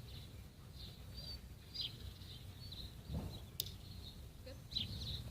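Small birds chirping in short, repeated calls over a steady low rumble of outdoor background noise, with one sharp click about three and a half seconds in.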